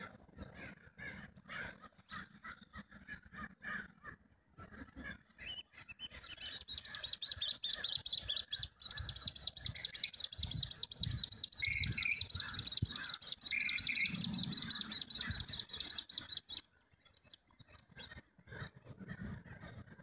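Birds calling outdoors: scattered short calls, then from about six seconds in a long, rapid, high-pitched trill that runs for about ten seconds and stops abruptly.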